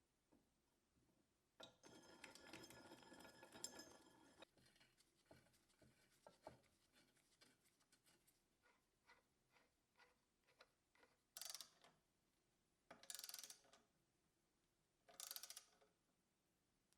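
Quiet metal-on-metal clicking and scraping from a bench vise being worked by hand: a scraping run near the start, then a string of separate clicks at about two to three a second, then three short scraping strokes near the end.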